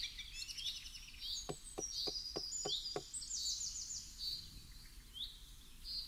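Small birds singing, with repeated short chirps and trills. About a second and a half in comes a quick run of about seven soft knocks, roughly four a second.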